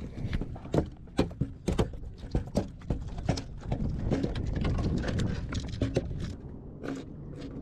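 Rapid, irregular knocks and thumps on a boat while a freshly landed jack crevalle is handled.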